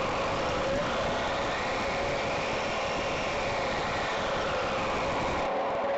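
Simulated engine sound from a DasMikro RC sound module, running steadily and rising and falling gently in pitch with the throttle stick.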